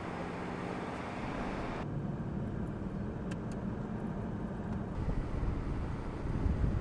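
Mercedes-AMG CLS63 Shooting Brake's twin-turbo V8 running as the car drives along, with road and wind noise. For a few seconds in the middle it is heard muffled from inside the cabin, then fuller from outside again, getting louder near the end.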